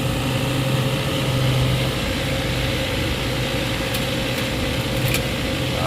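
Steady drone of a running motor or engine, holding one even pitch, with a couple of faint ticks near the end.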